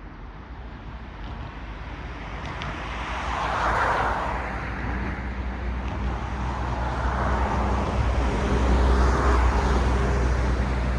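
Cars passing on a road: tyre and engine noise swelling as one car goes by about four seconds in, then another louder pass around eight to nine seconds, over a steady low traffic rumble.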